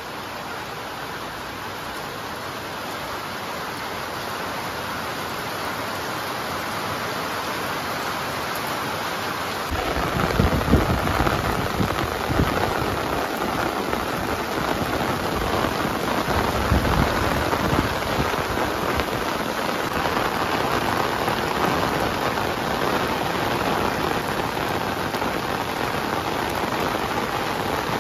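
Heavy rain pouring steadily and slowly growing louder; from about ten seconds in, low irregular rumbles join the hiss of the rain.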